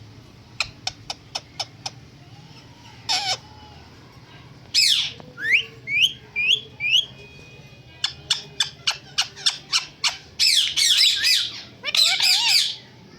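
Pet parrot calling: a run of short sharp clicks, a few rising whistled chirps, another quick run of clicks, then loud harsh squawks near the end.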